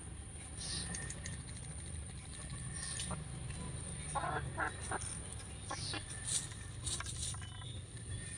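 A chicken clucking, with a quick run of short clucks about four seconds in. Scattered short scratching sounds, like its feet raking the ground, over a steady low rumble.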